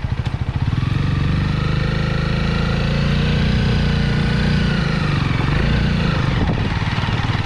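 Motorbike engine running while riding, its note rising over the first few seconds and falling back about five to six seconds in.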